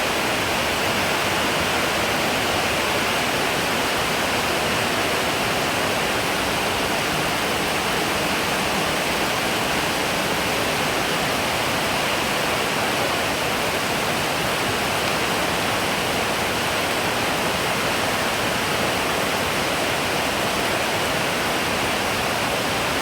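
Very heavy rain falling, a loud, steady, unbroken hiss.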